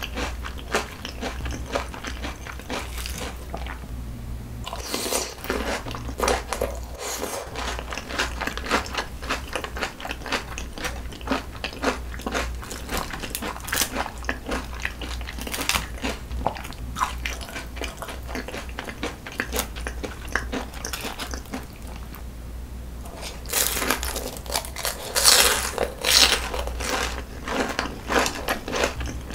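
Close-miked chewing and crunching of food: thin-sliced raw onion dressed in onion cream sauce and fried oysters. Rapid crisp crunches go on throughout, louder for a few seconds near the end.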